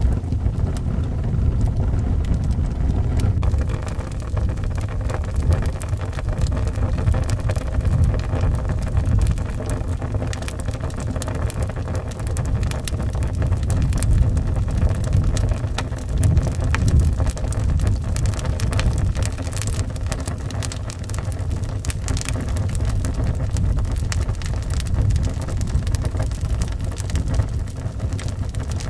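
Wood fire crackling with many sharp pops, over howling wind with a deep, steady rumble.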